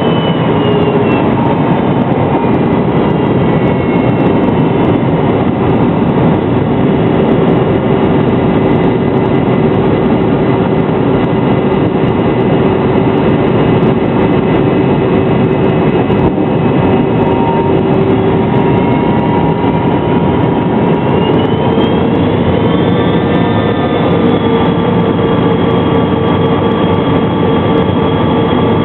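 McDonnell Douglas MD-83's rear-mounted Pratt & Whitney JT8D turbofan engines running steadily, a loud rushing noise with a whine over it. About twenty seconds in, the whine rises in pitch over a few seconds and holds higher as thrust is increased.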